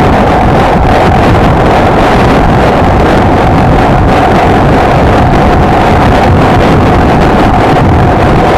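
Heavy wind noise on the microphone while riding a Honda XLR125R motorcycle at a steady speed. Under the wind the engine holds one steady note.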